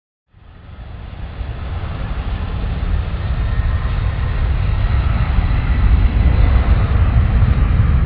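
Jet aircraft engines: a deep rumble with hiss that swells steadily louder over about six seconds as the plane approaches.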